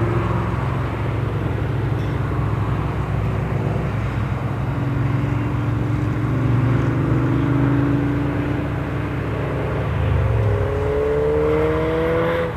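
Classic car engines running steadily at moderate pace, their pitch drifting up and down, then climbing over the last couple of seconds as a car accelerates.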